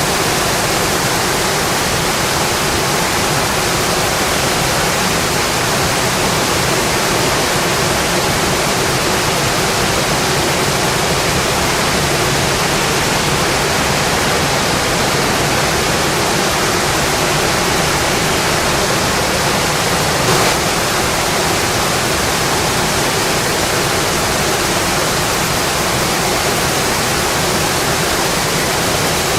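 Steady rainfall, a dense even hiss of many drops with no let-up, and one brief tap about two-thirds of the way through.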